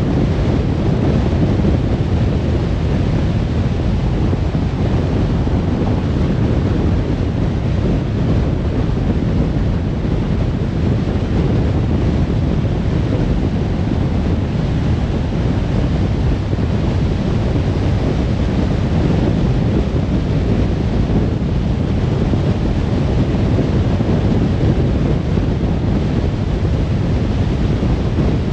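Steady rumble of road and wind noise from a moving car, even throughout, with no engine note or other events standing out.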